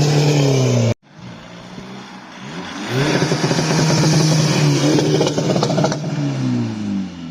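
Car engine held at high revs, cut off abruptly about a second in. A second rev rises about three seconds in, holds steady for about three seconds, then drops back toward idle near the end.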